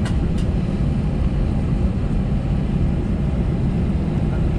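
Steady low rumble inside the cabin of an Airbus A320-214 while it taxis, from its CFM56 engines at idle and the wheels rolling on the taxiway. There are a couple of faint clicks at the very start.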